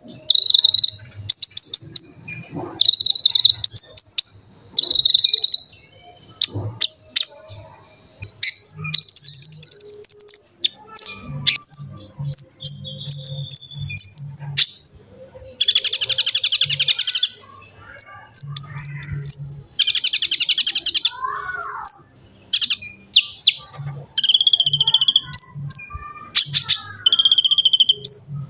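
Konin (kolibri ninja) sunbird singing: bursts of high, fast, buzzy trills and quick chirp runs, each lasting a second or two with short pauses between.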